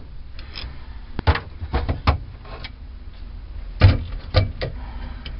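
Irregular light knocks and clicks of tools and wood being handled, about nine in all, the two loudest around four seconds in.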